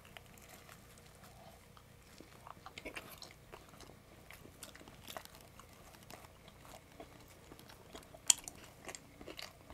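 Two people biting into and chewing slices of Domino's cheeseburger pizza close to the microphone: quiet, scattered mouth smacks and small crunches of crust, with one sharper click about eight seconds in.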